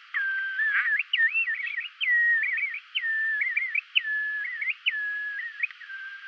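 Bristle-thighed curlew calling, played from a recording: repeated whistled phrases, each a sharp upward slur into a held note followed by a quick wavering trill, about one phrase a second.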